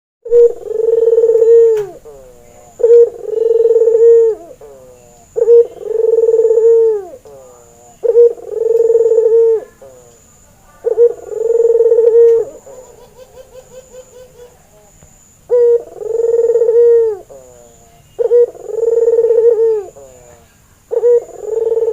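White Barbary dove (puter) cooing over and over: each call a short note followed by a long drawn-out coo, about eight calls, one every two to three seconds. Between two of the calls, about halfway through, comes a quick rolling run of short notes.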